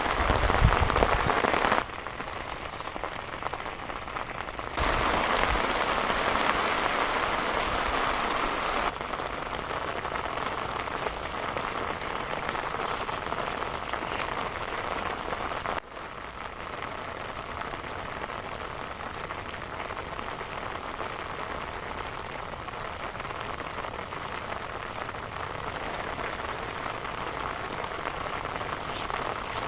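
Heavy rain falling, a steady hiss, with low rumbling in the first two seconds. Its loudness jumps abruptly a few times, about 2, 5, 9 and 16 seconds in.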